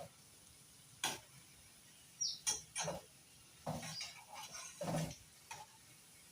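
A cooking utensil knocking and scraping against a pan as pieces of potato are turned while they cook. There are about eight separate, irregular clinks and scrapes with quiet between them.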